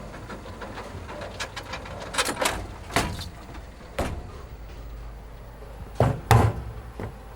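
A series of irregular knocks and bangs over a low steady hum, the loudest two close together about six seconds in.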